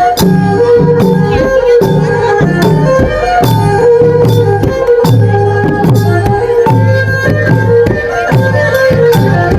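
Loud Khmer folk music for Sadam dancing: a steady low drum beat, about one stroke every 0.6 seconds, under a held melody line.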